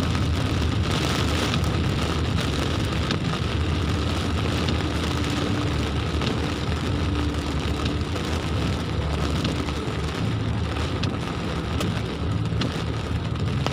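Heavy rain pattering on a car's roof and windshield, heard from inside the cabin, over the steady low rumble of the engine and tyres on a wet road.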